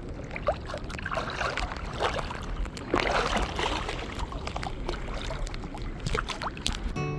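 Bare feet wading through shallow seawater: irregular splashing and sloshing with small clicks, the heaviest splashes about one, two and three seconds in.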